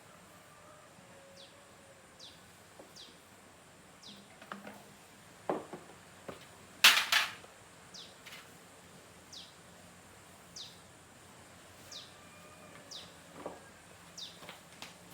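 Short high chirps, each falling in pitch, repeated about once a second, like a small bird calling. A few sharp knocks come between them, the loudest a double knock about seven seconds in.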